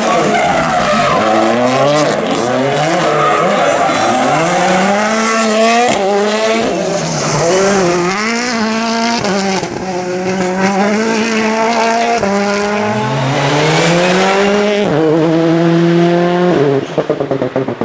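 World Rally Car's 1.6-litre turbocharged four-cylinder engine at full race pace, revving up and down through repeated gear changes, with some tyre squeal. Near the end the engine note breaks into a rapid stutter.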